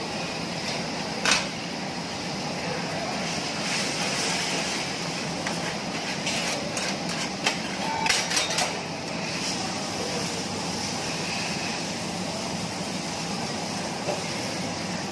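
Metal spatulas clacking on a teppanyaki griddle over a steady hiss. One sharp clack comes about a second in, and a quick run of clacks comes between six and nine seconds in.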